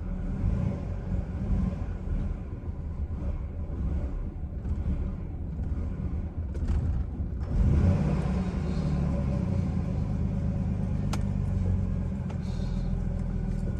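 Chevrolet Silverado engine idling very roughly on a nearly dead battery, its low rumble ragged and uneven. About halfway it briefly picks up, then settles into a steadier idle, with a sharp click a little later.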